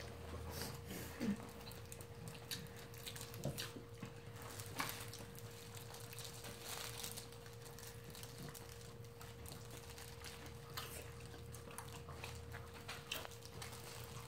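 Quiet eating sounds of fried chicken being chewed and handled with plastic-gloved hands, made up of scattered small clicks and soft smacks, over a faint steady hum.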